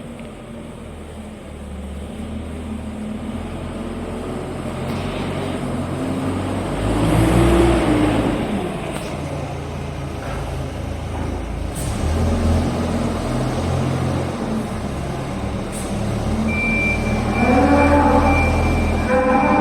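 Dieci 38.9 telehandler's diesel engine running and revving up and down under work, loudest twice. A steady high-pitched tone joins near the end.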